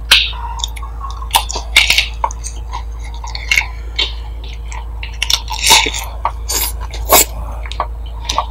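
Close-up chewing and biting into a lettuce wrap of grilled meat, with irregular crisp crunches and wet mouth sounds.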